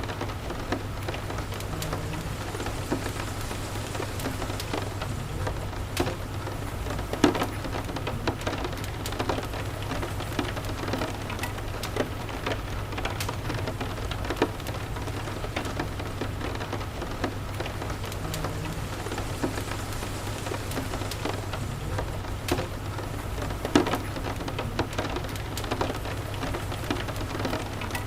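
Steady rain falling, mixed with the crackle and sharp pops of a wood fire burning in a fireplace. The loudest pops come about 7 seconds and 24 seconds in, over a steady low rumble.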